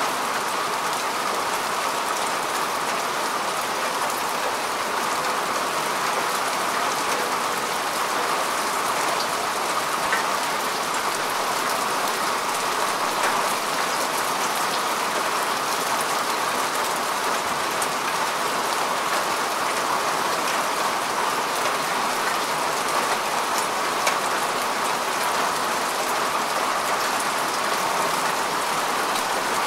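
Steady rain falling on grass and earth, a continuous even patter of many small drops with no letup.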